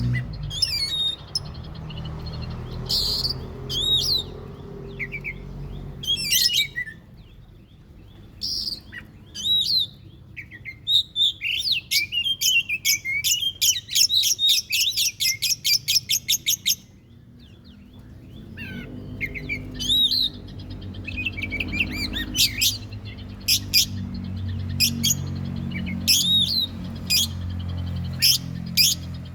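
Oriental magpie-robin (kacer) singing: sharp whistled notes and a fast chattering run of repeated chirps in the middle, about four a second, over a low steady hum at the start and in the second half.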